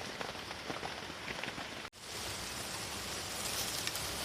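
Steady rain falling, with the patter of individual drops. The sound cuts out for an instant about halfway through and comes back a little brighter and denser.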